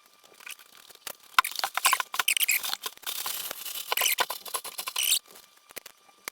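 Scratchy crinkling and clicking of tape and plastic freezer bags being handled, densest through the middle and dying away near the end.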